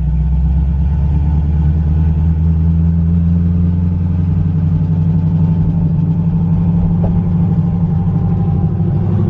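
Car engine idling close by, a steady low rumble that holds the same pitch throughout with no revving.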